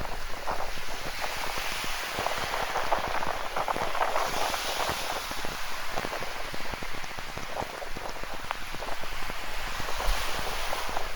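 Rain falling with many close raindrops ticking, over the steady wash of ocean surf that swells about four seconds in and again near the end.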